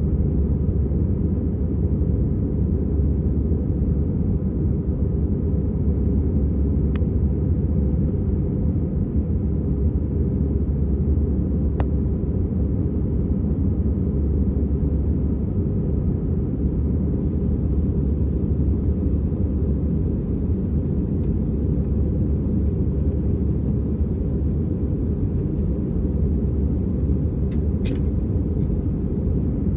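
Steady low rumble of an Airbus A320's engines and airflow, heard inside the passenger cabin, with a few faint clicks.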